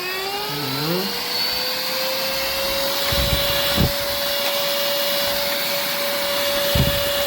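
SERVOMASTER cordless handheld vacuum cleaner switched on, its motor whine rising in pitch over the first two seconds, then running steady over a rush of air. A few low thuds come through as it works.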